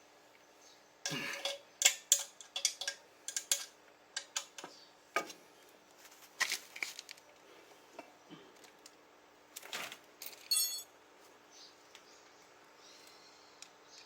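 Metal tools and parts clinking and clattering as they are handled, in irregular clusters of sharp clicks, with a clink that rings briefly near the ten-second mark.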